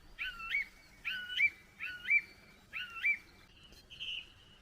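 A bird calling repeatedly: four short calls that swoop down and back up in pitch, just under a second apart, then a flatter, steadier call near the end.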